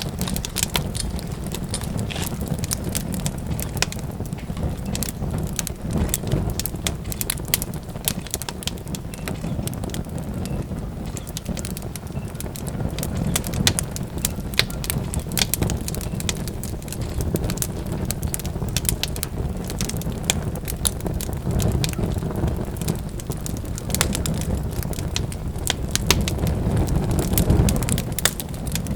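Wood fire burning with a steady low rumble and many sharp crackles and pops scattered throughout.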